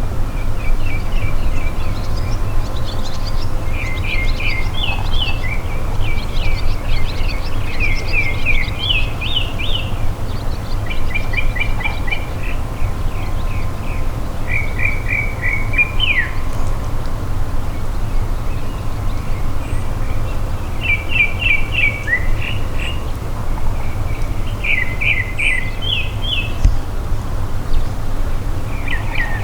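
A songbird singing phrases of quick, rapidly repeated chirping notes, a second or two each with short pauses between, over a steady low rumble.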